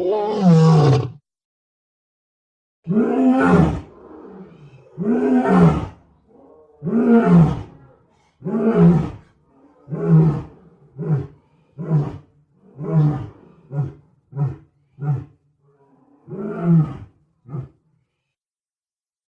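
Demonic female bodybuilder voice sound effect: a run of about fourteen roaring grunts. They start long and spaced out, then grow shorter and come faster toward the end.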